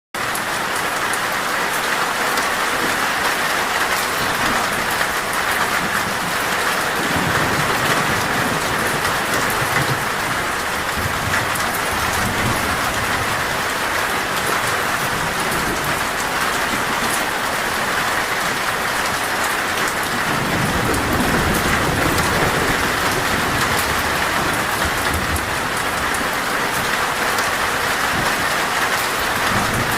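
Torrential rain on a metal roof: a dense, steady spatter of drops. Low thunder rumbles twice, about a quarter of the way in and again about two thirds in.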